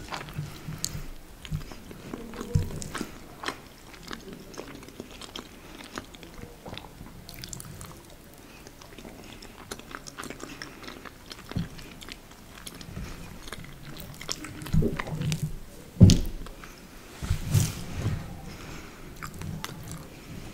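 Close-miked chewing and wet mouth sounds of a person eating soft lasagna, with small smacks and clicks, and a louder low thump about three-quarters of the way through.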